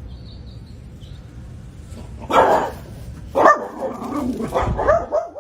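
A dog barking: a loud bark about two seconds in and another a second later, followed by a run of shorter barks and yelps that bend up and down in pitch.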